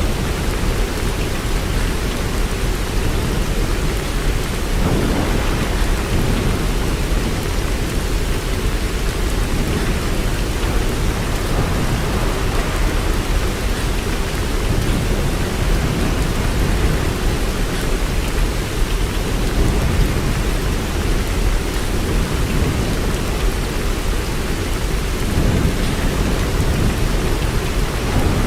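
Steady rain, an even hiss without pauses, with a deep constant rumble underneath.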